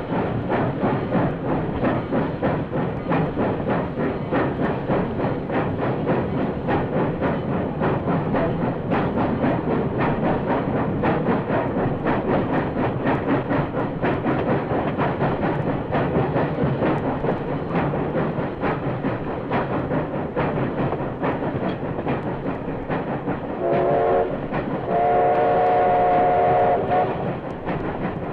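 Steam locomotive running with rapid, continuous exhaust beats. Near the end its steam whistle gives a short toot, then a longer blast of about two seconds.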